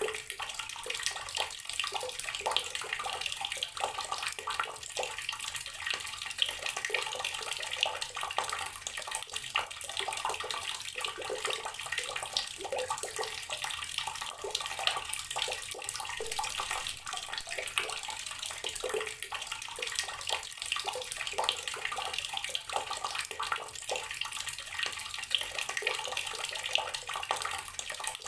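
Water running steadily from a tap and splashing onto the basin below, a continuous spattering with many small droplet splashes.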